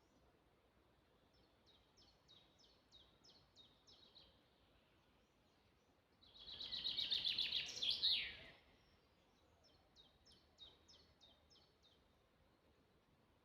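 Songbirds singing in woodland: a series of about eight short, high, falling whistled notes, then near the middle a louder, rapid song of about two and a half seconds ending in a falling flourish, then another series of short falling notes. A faint steady hiss lies underneath.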